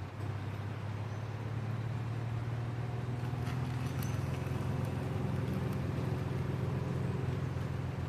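Steady low engine hum, with a few faint clicks around the middle.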